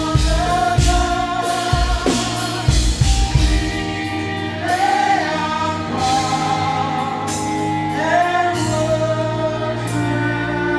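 Live gospel praise music: voices singing long held notes over sustained keyboard and bass, with drum hits busiest in the first few seconds.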